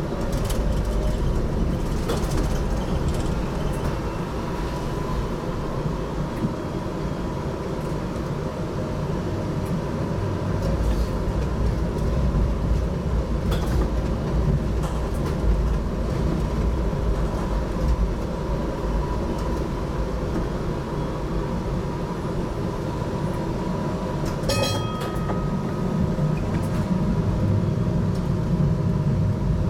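HTM GTL8 articulated tram running on its rails, heard from aboard: a steady low rumble of wheels on track with a faint steady whine, broken by a few sharp knocks and a short cluster of clicks near the end.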